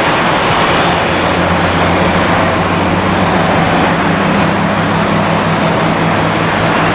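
Aircraft engines running loud and steady, an even rush of noise with a low steady hum underneath.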